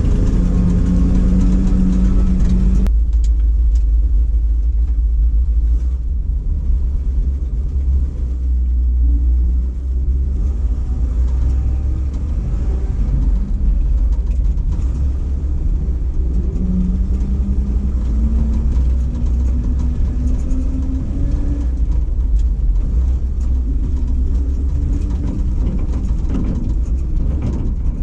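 Ford F700 truck's 370 V8 petrol engine with a four-barrel carburettor, running under way with a heavy low rumble. Its steady note cuts off abruptly about three seconds in, and later the engine pitch climbs for about four seconds as the truck accelerates through a gear, then drops.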